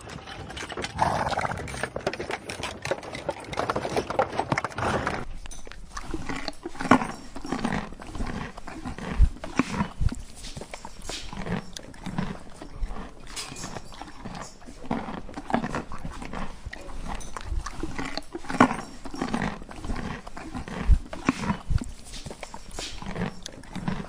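Horses grazing, tearing and munching grass in irregular crunches, about one or two a second.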